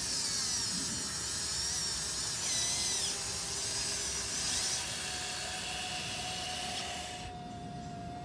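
Small electric motors and gearboxes of a 1580 RC excavator whining as it works, the pitch shifting as different movements run. The high whine stops about seven seconds in, leaving a steady lower hum.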